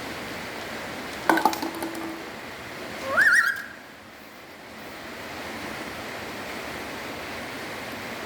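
A pet parrot giving a short wavering call that rises sharply in pitch, about three seconds in, after a quick clatter of clicks about a second in, over a steady background hiss.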